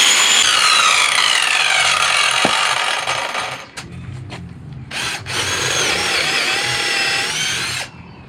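Handheld electric power tool running under load in two runs, its motor whine sagging in pitch as it is pressed into the work. It cuts off about three and a half seconds in and starts again about five seconds in.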